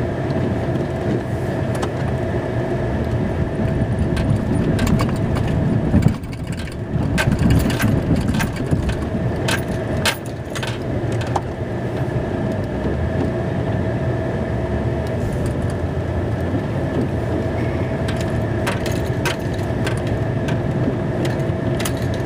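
Snow-plow pickup truck's engine running steadily, heard from inside the cab, with a steady whine over it. Rattling clicks and scraping come and go, busiest from about six to eleven seconds in, as the plow pushes wet snow mixed with mud and gravel.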